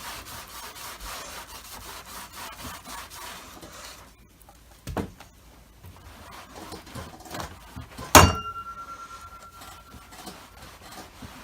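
Quick back-and-forth rubbing strokes on the Dyson DC25 vacuum's body as paint marks are scrubbed off, easing off about four seconds in. A knock about five seconds in and a louder sharp knock with a short ring just after eight seconds.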